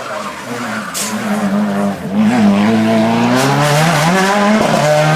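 Hill-climb race car engine running hard under acceleration, its pitch climbing and then dropping at a gear change near the end. It grows louder about two seconds in, with a short sharp crack about a second in.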